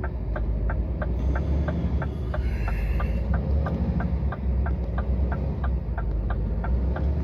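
Scania truck's diesel engine running with a steady low drone, heard inside the cab, with an even ticking about three times a second.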